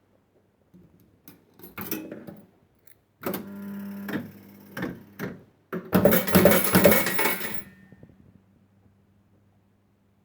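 1970s Funworld Stars & Stripes fruit machine in play: sharp mechanical clicks over a low hum, then about six seconds in, a dense metallic clatter of coins lasting nearly two seconds.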